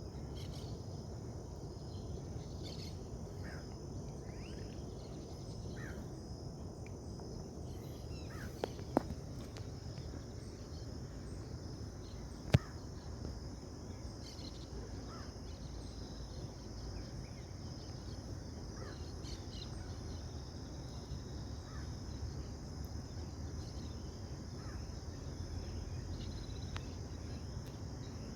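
Outdoor natural ambience: a steady high drone of crickets or similar insects over a low rumble, with scattered short bird chirps. There are two sharp clicks, about nine and twelve and a half seconds in.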